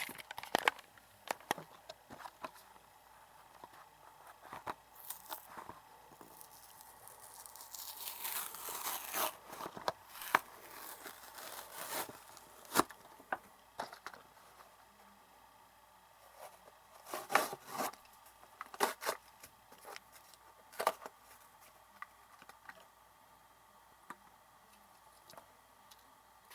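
Toy train packaging being torn open and handled: scattered sharp clicks and snaps with crinkling, and a longer stretch of tearing about a third of the way in.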